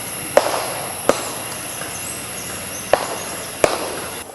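Four sharp knocks, spread unevenly, over a steady hiss and a high thin whine.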